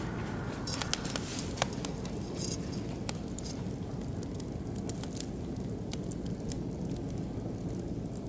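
Oak and beech wood fire crackling, with scattered sharp pops over a steady low rumble; the pops come more often in the first few seconds.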